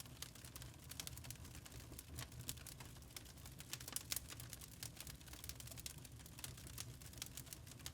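Wood fire crackling in a fireplace: a dense, irregular run of sharp snaps and pops over a low, steady rumble.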